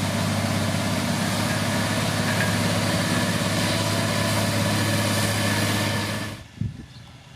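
Heavy diesel engine of road-construction machinery running steadily with a deep hum, cutting off suddenly about six seconds in; a few faint low thumps follow.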